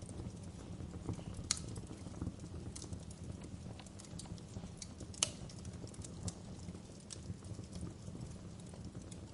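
Fireplace crackling: a steady low rumble of the fire with irregular sharp pops and snaps, the two loudest about a second and a half in and about five seconds in.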